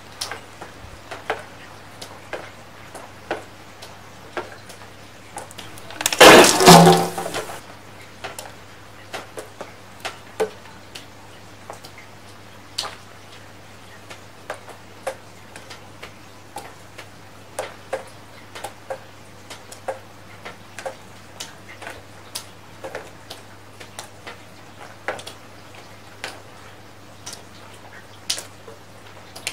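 Raindrops falling close to the microphone, heard as irregular separate ticks and taps, a few a second, over a faint steady hum. About six seconds in, a loud noisy burst lasts about a second and a half and cuts off suddenly.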